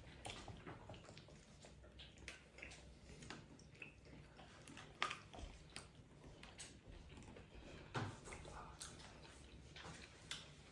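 Faint chewing and biting of people eating chicken wings: scattered, irregular soft clicks and mouth smacks.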